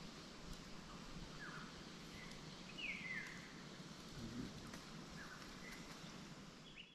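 Faint outdoor forest ambience with a scattering of short, high, falling bird calls, the longest about three seconds in.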